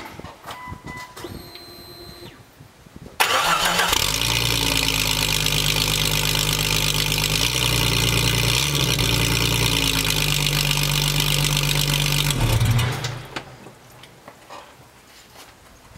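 1997 Jeep Cherokee XJ's 4.0L inline-six, run with no catalytic converter and no muffler, fires up about three seconds in. It runs loud and steady through its straight open exhaust for about nine seconds, then is shut off and dies away.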